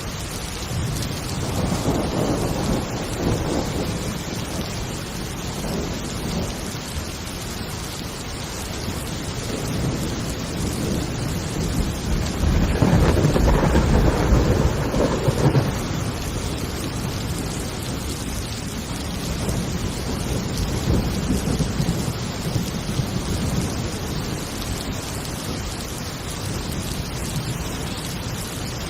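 Thunderstorm: steady heavy rain with rolling thunder rumbles swelling and fading over it, the loudest rumble about halfway through.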